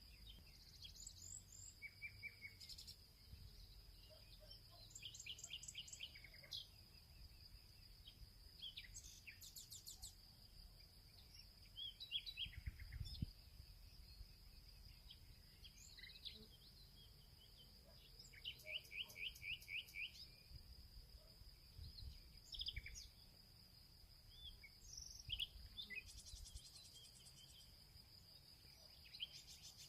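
Faint birdsong in a field: several birds chirping and singing short rapid series of repeated high notes, over a steady high-pitched insect drone.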